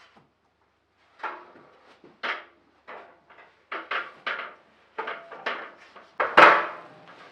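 A string of short, irregular knocks and clacks from household objects being handled, about a dozen in all, with the loudest and most ringing one near the end.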